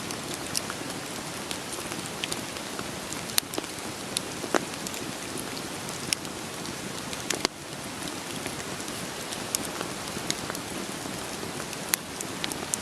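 Wood fire crackling, with irregular sharp pops from the burning logs, over a steady patter of rain.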